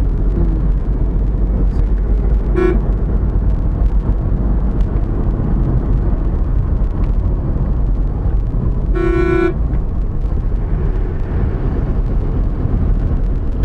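Steady rumble of road travel on a highway, with a short vehicle horn toot about two and a half seconds in and a louder half-second horn honk about nine seconds in.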